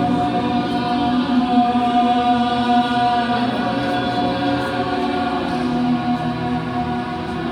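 Recorded show music: a choir singing long, held chords.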